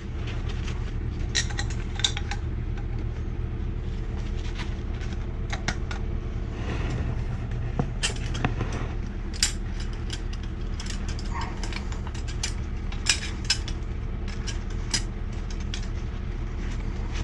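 Scattered sharp metal clinks and clicks of threaded gas pipe fittings and tools being handled, over a steady low hum.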